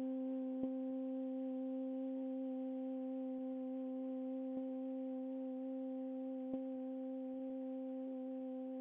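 A steady held drone tone with its overtones, ringing evenly like a singing bowl under the meditation, with a few faint ticks.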